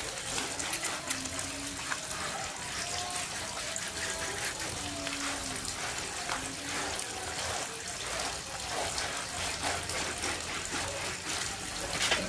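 Tap water running with irregular splashing as a dog is washed.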